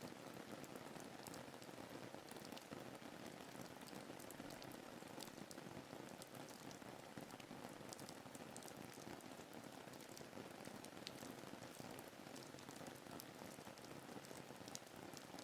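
Faint, steady rain ambience: an even hiss of rainfall with many small drop ticks scattered through it.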